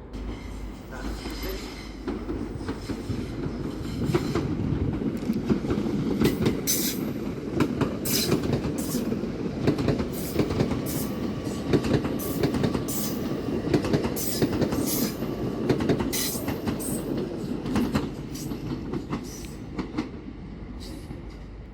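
Train rolling through a station at low speed: a low rumble with a run of sharp, uneven clicks as the wheels pass over rail joints and pointwork. It builds a few seconds in and eases off near the end.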